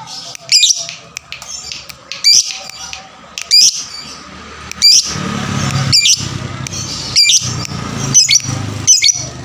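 Lovebird calling: short, loud, sharp calls about every second and a bit, over continuous high twittering chatter. A low rumble joins underneath about halfway through.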